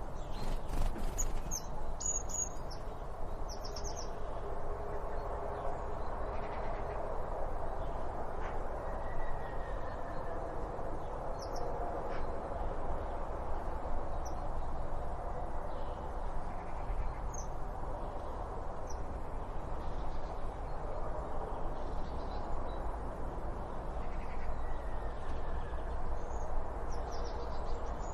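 Birds calling in short high chirps, scattered singly and in small groups, over a steady low background noise and hum.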